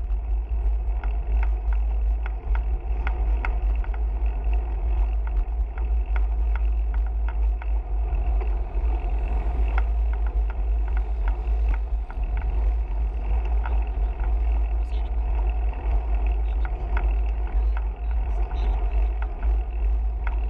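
Steady wind rumble on the microphone while cycling, with scattered light clicks and rattles throughout.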